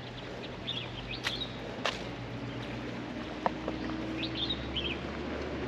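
Small birds chirping in short high bursts, twice, over steady outdoor background noise, with a few sharp clicks.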